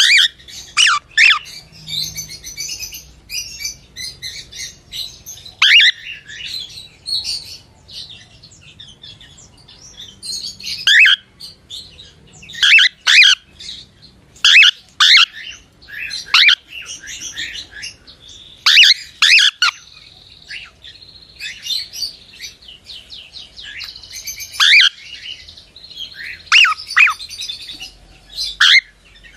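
Cockatiel chirping: loud, sharp calls that sweep down in pitch, often in quick runs of two to four, with softer chattering warbles in between.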